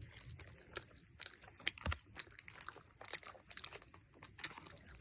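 Someone biting and chewing an Oreo-flavoured Cow Tales candy, with scattered soft crackles and clicks, some of them likely from its plastic wrapper.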